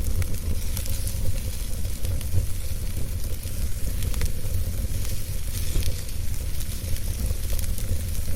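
Wood fire crackling in a fireplace: scattered sharp pops over a steady hiss and a low rumble.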